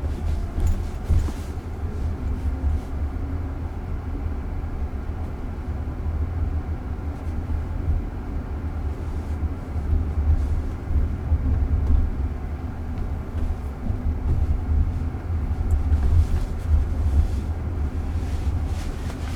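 Steady low road rumble and tyre noise inside the cabin of a moving car.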